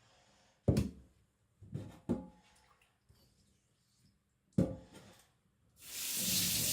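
A few sharp knocks of hard objects set down on a hard surface, then, near the end, water from a tap starts to run with a steady hiss.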